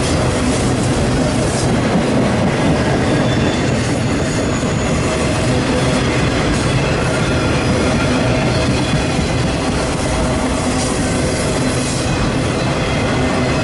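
Train cars rolling steadily past on steel rails, wheels rumbling and clacking, with a few brief high-pitched wheel squeals.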